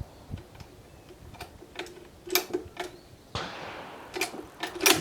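Dutch Beaumont rifle being handled: a string of sharp metallic clicks and clacks from its bolt action being worked as a cartridge is chambered, with a brief scraping slide about three and a half seconds in.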